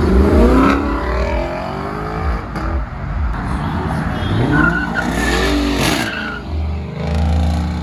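C6 Corvette's V8 revving hard as the car accelerates away, its pitch climbing at the start and rising and falling again about five seconds in, with tyres squealing as it drifts out.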